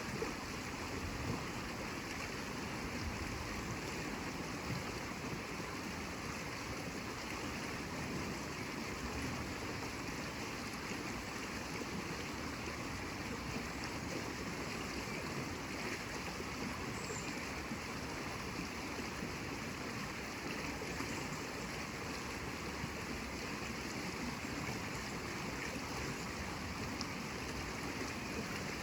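Steady rushing of running water, even and unbroken, with no swells or breaks.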